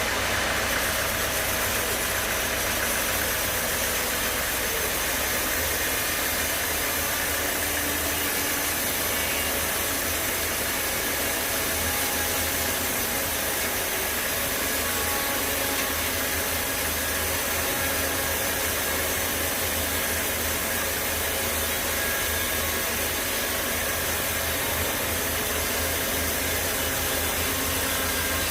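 Sawmill machinery running steadily: a continuous, even mechanical noise with a low hum underneath.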